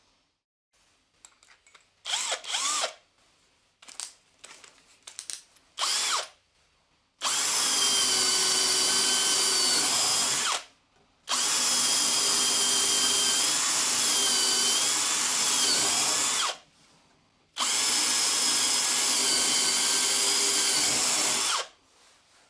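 Electric drill running in three long runs of several seconds each, with short pauses between, its steady whine dipping slightly in pitch now and then as it bores. A few short knocks and brief bursts of sound come before the first run.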